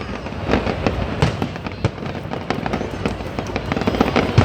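Fireworks display bursting overhead: an irregular rapid series of bangs and crackles, with the loudest bang near the end.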